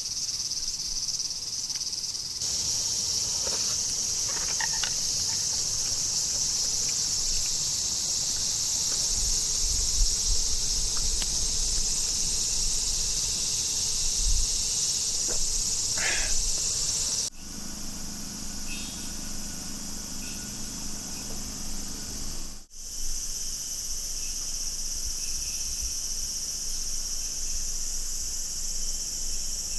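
Summer insect chorus: a dense, steady high-pitched buzzing that carries on throughout, briefly dropping out twice in the second half.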